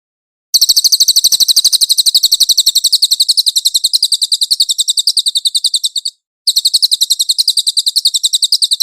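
Cililin bird singing a fast, high trill of rapidly repeated chip notes, about a dozen a second, broken by a short pause about six seconds in.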